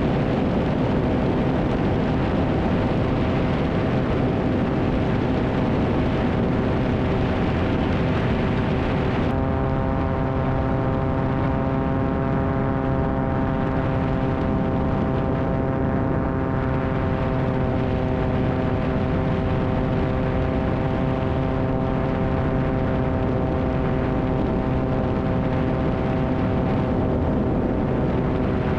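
Cessna 180's piston engine and propeller droning steadily in flight, a constant hum of steady tones over a wash of noise. About nine seconds in the sound turns duller and the engine tones stand out more clearly.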